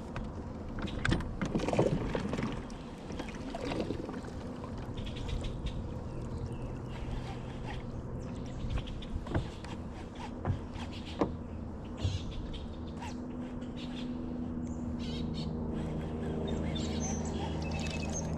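Birds calling over a steady low hum, with scattered clicks and knocks and a louder noisy stretch about a second in.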